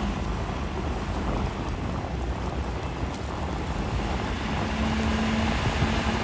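A river ferry's engine running steadily, a low rumble under wind buffeting the microphone and water noise. A faint steady hum joins in about four seconds in.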